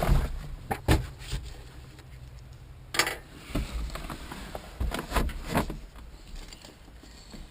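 Scattered knocks and clicks of handling, the strongest near the start, about a second in, about three seconds in, and a cluster around five seconds, over a low steady hum that stops about three seconds in.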